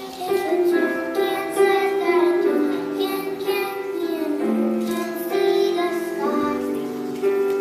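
Children singing a song together, with instrumental accompaniment.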